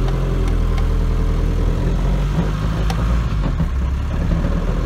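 Rover SD1 2400 SD Turbo's four-cylinder turbodiesel running as the car is driven, heard from inside the cabin, with a rough noise that does not sound good. The owner first suspects a temporarily bodged exhaust, then puts it down to the input shaft of the freshly fitted LT77 gearbox, which sounds like a bag of loose spanners.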